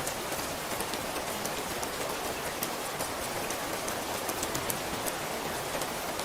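Steady rain falling, an even hiss with many small drops ticking sharply on a hard surface.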